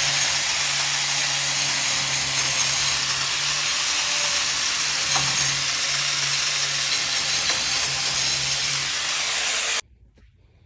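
A power tool running steadily, a noisy hiss over a low hum, cutting off suddenly near the end.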